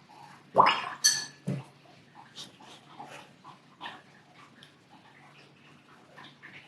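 A dog gives a few short whimpering yelps between about half a second and a second and a half in, one of them high-pitched, followed by faint scattered clicks and taps.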